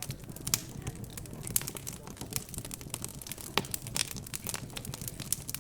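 Wood fire crackling, with many small irregular pops and snaps and a sharper pop a little past halfway.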